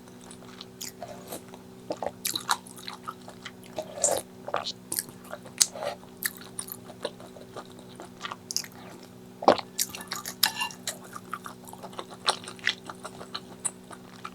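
Close-miked chewing and biting of food, with irregular wet mouth smacks and crisp crunches over a faint steady hum.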